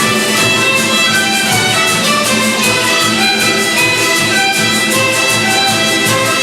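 A youth orchestra of Latin American instruments playing, with violins prominent, over a steady beat.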